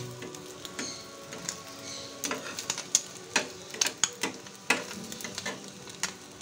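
Egg-dipped bread frying in mustard oil in a steel pan, a steady sizzle, with a metal spatula clicking and scraping against the pan at irregular moments as it presses the toast down.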